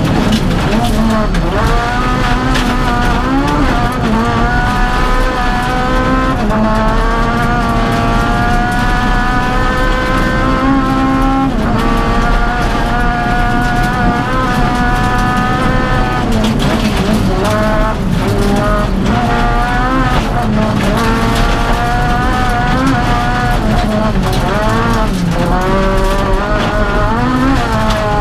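Honda Civic Type-R rally car's engine heard from inside the cabin at full throttle, its pitch climbing again and again and dropping back at each gear change, every few seconds, over the steady noise of tyres on gravel.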